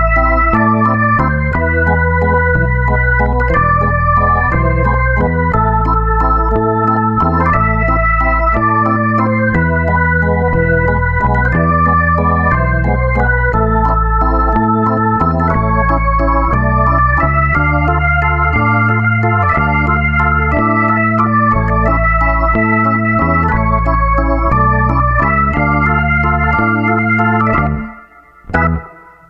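Background music: a sustained organ-like keyboard melody over a steady bass line, breaking off briefly near the end.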